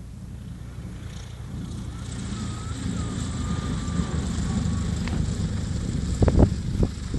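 Cessna 172's piston engine and propeller rumbling, growing steadily louder as the plane comes in to land. A few heavy low thumps come near the end.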